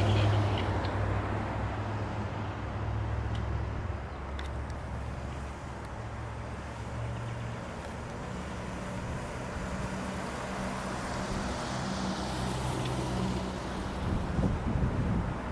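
Heavy emergency vehicle's diesel engine pulling away and fading, its low drone stepping in pitch as the transmission shifts. A louder passing-vehicle sound comes near the end.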